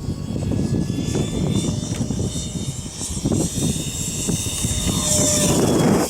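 RedCat Jetiger's 64 mm electric ducted fan whining as the jet flies, its pitch sliding up and down and loudest near the end as it passes close. Strong wind buffets the microphone throughout.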